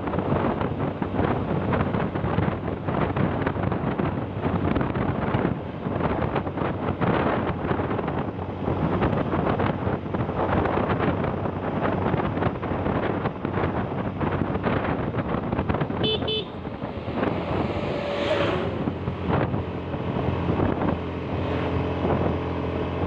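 Vehicle engine and road noise on the move, with wind buffeting the microphone. A short horn toot sounds about sixteen seconds in.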